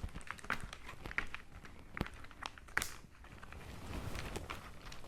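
Scattered light clicks and faint rustling of small plastic toy pieces and packaging being handled, with a couple of sharper clicks about two and three seconds in.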